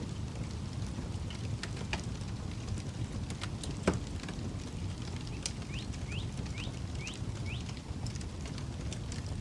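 Campfire crackling, with scattered pops and one loud pop about four seconds in, over a low wind rumble on the microphone. Midway, five short rising chirps come in quick succession.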